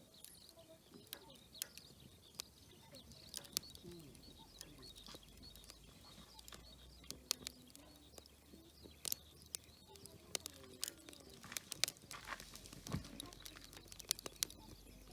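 Wood campfire crackling, with sharp irregular pops coming more often in the second half.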